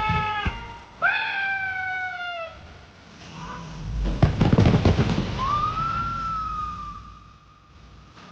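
New Year's Eve crowd and fireworks: two sliding, falling pitched tones like whistles or cheers, then a quick burst of crackling firework bangs about four seconds in, and one long whistling tone that rises and then falls.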